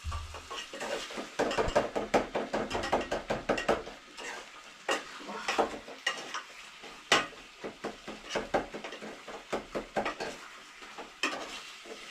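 A spoon stirring chicken and tomatoes in a cooking pot, clinking and scraping against the pot. There is a quick run of strokes, then a few separate knocks on the pot's rim.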